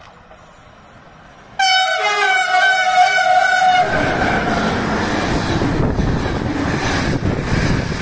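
Train horn sounded as a driver's greeting, starting suddenly about one and a half seconds in and held for about two seconds, then the train passing close by with loud rushing rail noise.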